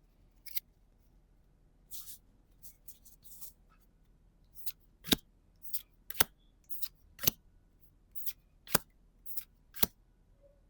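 Trading cards from a freshly opened booster pack being flicked through one at a time, each card giving a short, sharp snap. The snaps come sparsely at first, then about two a second from about halfway through.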